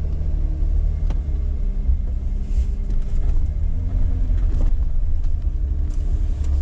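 2012 Jeep Wrangler JK's 3.6-litre V6 engine running at low revs, its pitch drifting up and down a little, under heavy wind buffeting on the microphone. A sharp knock about a second in.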